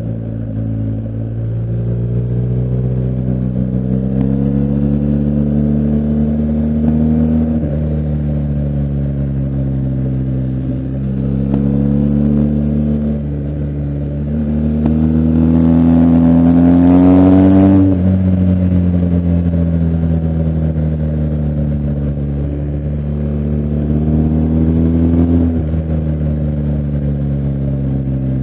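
BMW R1250GS Adventure's boxer twin engine pulling hard through the gears and backing off. The pitch climbs, then steps down at each shift several times. The strongest pull peaks about 17 seconds in, then the engine note falls away as the throttle closes and rises again near the end.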